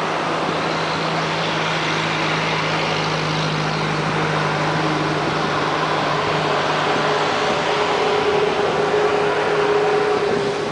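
Distant narrow-gauge toy train's locomotive running: a steady low engine hum that gives way to a higher drone about halfway through.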